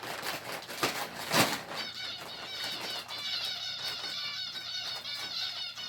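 A flock of small caged finches chirping loudly, with many short repeated calls overlapping and thickening from about two seconds in. In the first two seconds there are a few sharp rustles or knocks.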